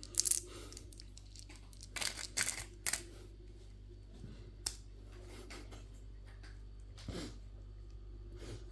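Candy packaging being handled and unwrapped: short bursts of wrapper crinkling and tearing with a few sharp clicks, in several separate bursts.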